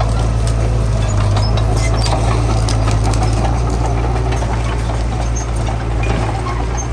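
Heavy diesel engine of earthmoving machinery running steadily with a deep hum, with light scattered clanks over it.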